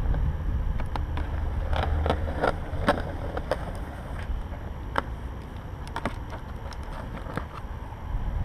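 Jackhammer's cardboard shipping box being opened and its packing handled: scattered clicks and knocks over a steady low rumble.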